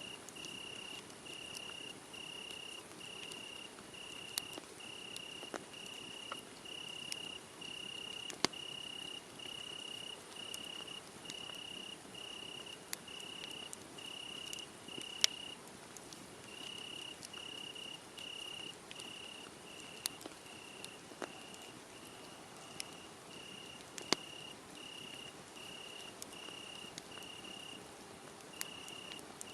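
A cricket chirping steadily, about one and a half high chirps a second, breaking off briefly a little past the middle. Under it a wood fire hisses softly, with occasional sharp crackles and pops.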